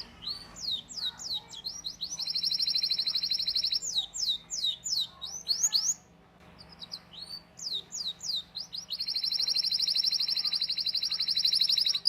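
Domestic canary singing: runs of quick rising 'cuit cuit' chirps alternating with long, fast, even rolling trills, the first about two seconds in and the second from about nine seconds in to the end, with a brief pause midway.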